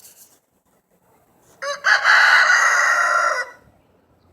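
Rooster crowing once: a loud call of about two seconds that opens with a short stuttering start.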